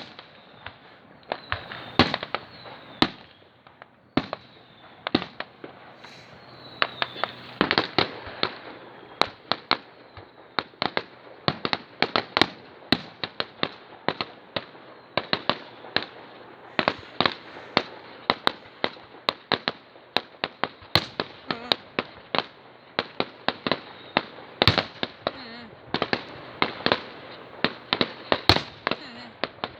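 Fireworks display going off: a dense, irregular run of sharp bangs and pops, several a second, with a crackling haze between them.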